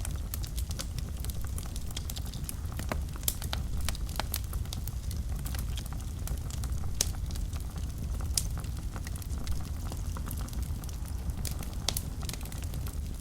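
Wood fire burning in a fireplace: a steady low rumble with frequent irregular crackles and pops, a few of them sharper and louder.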